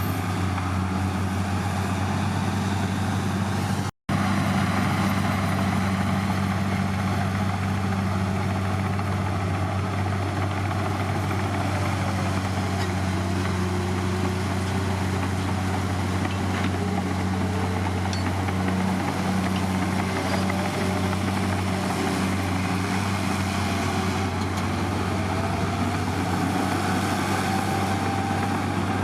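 Heavy diesel engine of earthmoving machinery running steadily, with faint squeals gliding up and down over the second half. The sound cuts out for an instant about four seconds in.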